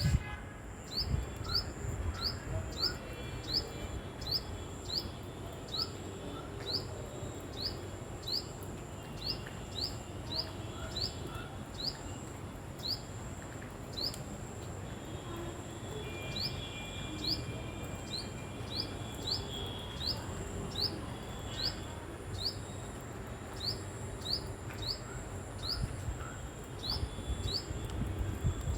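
Tailorbird (Orthotomus) calling: a long run of short, sharp chirps, each rising quickly in pitch, about two a second with a few brief pauses.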